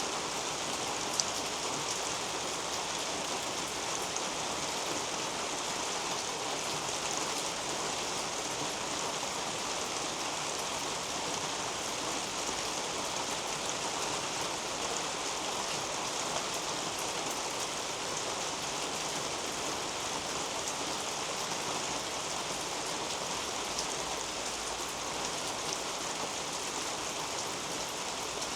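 Steady rain falling on a leafy garden canopy and the plants beneath it, with a sharper single drop about a second in.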